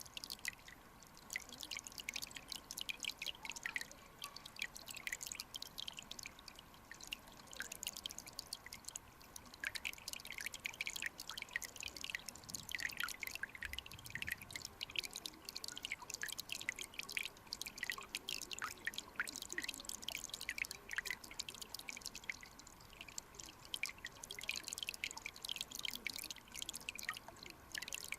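Mountain stream recorded underwater: a dense, irregular patter of small drip-like pops and bubbles over a faint hiss, with a brief low rumble about halfway through.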